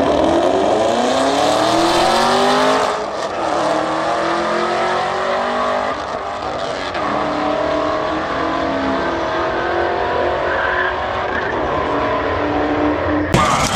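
Drag-racing car's engine accelerating hard, its pitch rising through the gears with drops at shifts about three and six seconds in, then holding at high revs.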